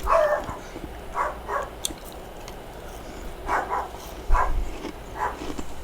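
A dog barking in short barks, about six, several coming in quick pairs.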